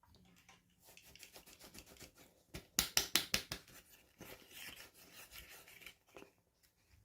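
Toy packaging being handled and opened: a run of quick crinkles and clicks, with a burst of sharp, fast ticks about three seconds in, then fainter rustling.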